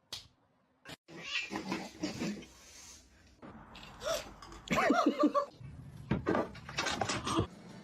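A cat meowing several times, the calls starting about a second in.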